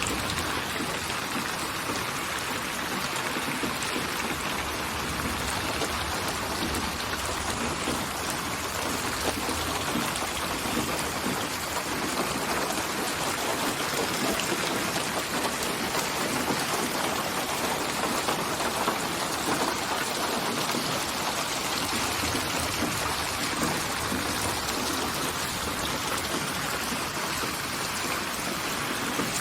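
Steady rain falling, an even hiss of many drops with no breaks, used as a white-noise sleep sound.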